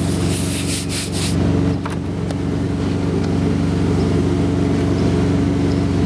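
Peterbilt 386's Cummins ISX diesel idling steadily, with quick scrubbing strokes that stop a little over a second in.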